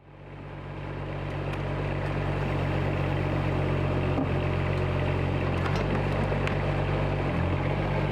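An engine running steadily, fading in over the first two seconds and then holding an even level.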